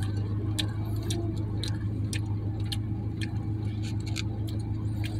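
Close-up chewing of a mouthful of noodles, with irregular sharp mouth clicks about two a second, over the steady low hum of the pickup truck's idling engine.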